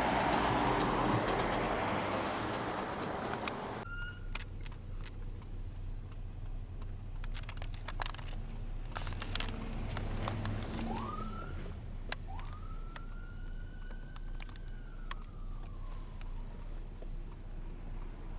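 Emergency vehicle siren heard faintly: a short rising chirp, then a wail that climbs, holds and slowly winds back down. For the first few seconds a loud steady rush of passing-traffic noise fills the sound, then it cuts off abruptly.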